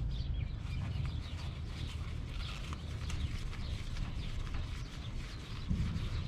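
Light, irregular knocks and clicks of the package air-conditioning unit's metal access panel being put back and closed up, over a steady low hum.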